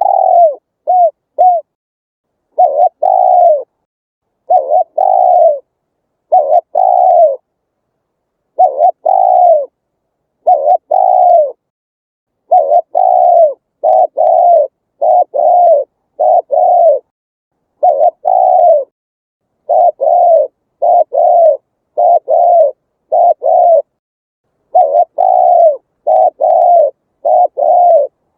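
Spotted dove cooing over and over: short, low, arched coos in quick groups of two or three, with dead silence between groups.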